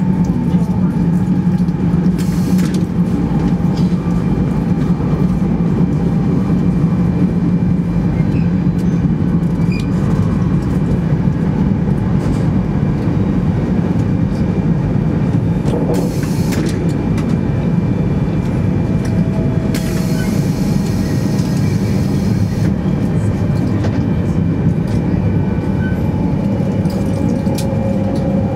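Running noise inside a 200 Series Shinkansen car at speed: a steady low rumble and hum of the wheels and running gear, with a few short swells of hiss partway through.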